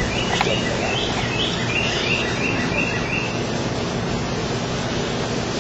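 A songbird calling in a quick series of short repeated chirps, about three a second, that stops about three seconds in, over a steady outdoor background hiss. A single brief click sounds about half a second in.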